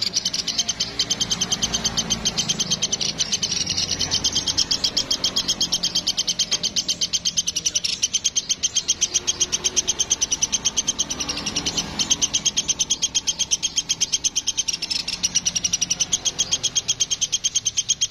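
A woodpecker ('platuk') calling in a long, unbroken chattering trill of sharp, high notes, about six or seven a second.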